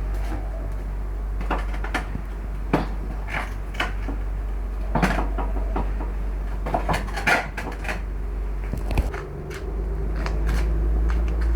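Scattered knocks, clinks and clatters of objects being handled and set down, over a steady low hum.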